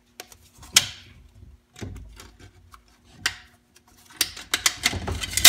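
Metal transmission parts clicking and knocking as a beveled part is worked loose and pulled out of a 4L80E transmission case by hand: a few scattered sharp clicks, then a quick run of knocks and clatter near the end.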